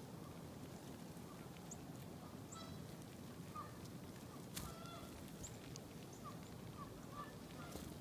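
Birds calling faintly: short nasal, honk-like notes every second or so, mixed with a few thin high chips, over a steady low hiss. A single brief click comes about halfway through.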